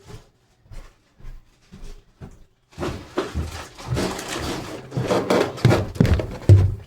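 Door hardware being handled and fitted: a few light clicks, then from about three seconds in a long run of rattling, scraping and knocking as the part is worked onto the door.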